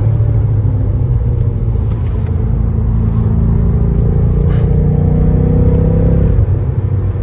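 BMW M5 Competition's twin-turbo V8, heard from inside the cabin, pulling under acceleration with its pitch slowly rising. About six seconds in, the pitch drops suddenly.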